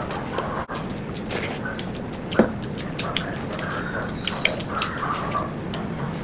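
Wet eating sounds: chewing and mouth clicks, scattered through, with one sharper click about two and a half seconds in.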